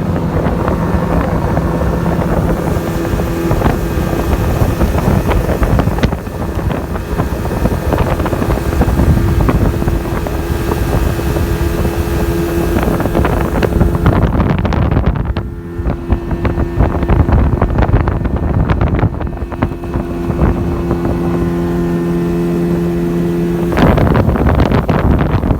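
Jet boat under way: a steady engine hum over rushing water, with wind on the microphone. The engine note drops away for a couple of seconds midway and again near the end, leaving splashing water and wind.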